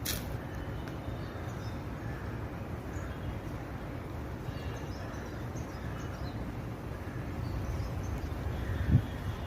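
Outdoor ambience: a steady low rumble like wind on the microphone, with faint bird chirps. A single thump near the end.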